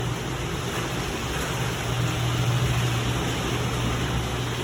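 Garage door opener running as the door travels down and closes, a steady motor hum with the rattle of the door. The door now closes because both safety sensors have been realigned and are lit.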